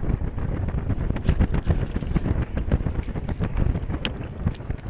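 Wind buffeting the microphone in gusts, a heavy low rumble throughout, with a single sharp click about four seconds in.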